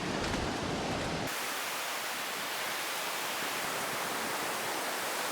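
Steady rushing noise of surf breaking on a sandy beach in rough weather, with a low rumble. About a second in, the rumble drops out abruptly and an even, higher hiss carries on.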